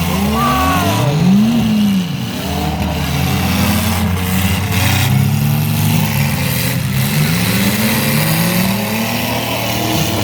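Several mini-truck engines revving up and down, their pitch rising and falling over and over and overlapping, as the trucks drive and ram in a demolition derby.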